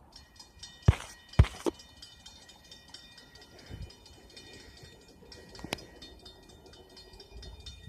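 Passenger train at the station, with a set of high steady ringing tones throughout and sharp knocks about a second in, half a second later, and again near six seconds.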